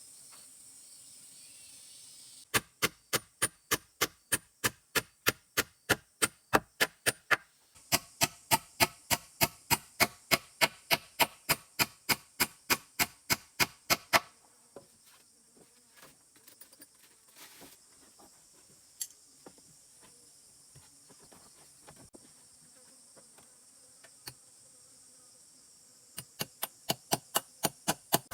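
Rapid, evenly spaced chopping strikes, about three or four a second, in two long runs with a quieter stretch of scattered small knocks between them. A steady high insect drone runs underneath.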